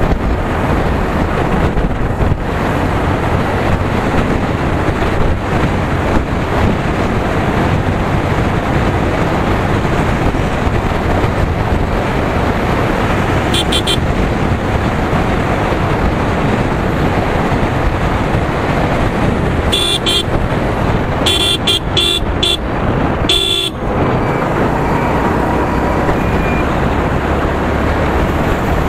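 Steady wind and road rush from a motorcycle at speed, with the engine running underneath. A vehicle horn toots briefly about halfway through, then several short toots come in quick succession a few seconds later.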